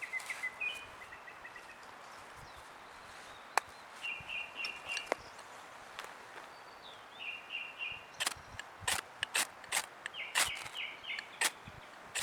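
Small birds chirping in short runs of four or five quick high notes, repeated several times over a steady outdoor background. Sharp clicks or snaps come now and then, most of them in the second half.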